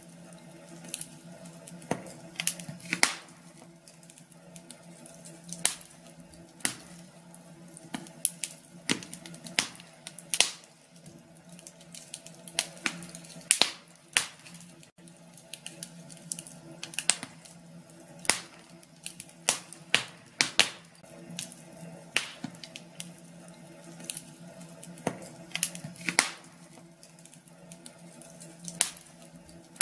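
Wood fire crackling in a fireplace: irregular sharp pops and snaps, some much louder than others, over a low steady hum.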